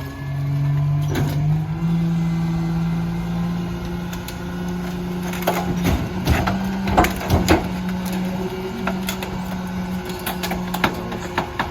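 Mack LR garbage truck's diesel engine held at raised revs to drive the McNeilus rear loader's hydraulic packer, with crunching and sharp cracks as the packer blade crushes the load in the hopper. The engine pitch steps up near the start, and the cracking is thickest in the middle.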